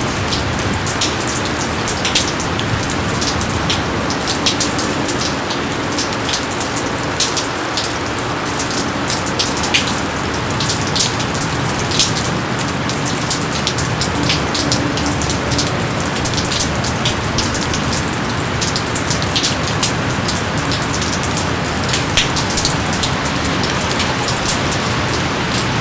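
Steady heavy rain falling, with a dense hiss and many individual drops striking close by.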